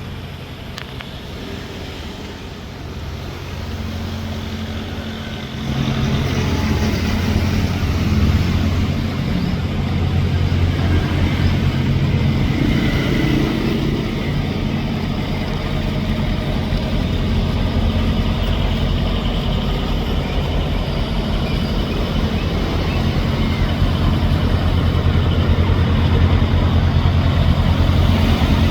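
A boat's engine running steadily with a low, even hum. It becomes louder about five or six seconds in and stays at that level.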